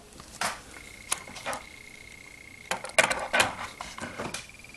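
A scatter of light, sharp clicks and taps from a small hard plastic object being handled, with a cluster of them about three seconds in. A faint steady high-pitched tone sounds for a couple of seconds in the first half.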